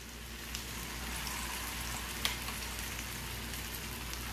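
Pumpkin fritters sizzling and crackling in hot oil in a frying pan, a steady hiss that grows a little louder about a second in, with one sharp click a little past the middle.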